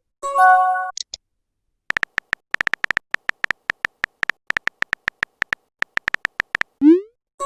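Messenger-app sound effects: a short chime of several steady tones and a small high blip, then about five seconds of rapid on-screen keyboard typing clicks. Near the end a rising whoosh marks a message being sent.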